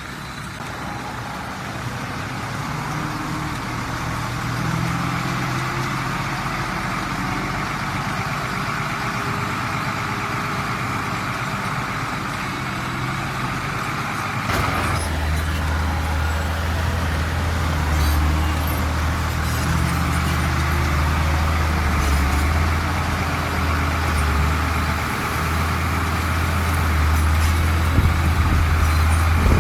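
Heavy diesel earthmoving machinery running continuously. About halfway through, a deeper and louder engine note comes in and holds, as a machine works harder or comes closer.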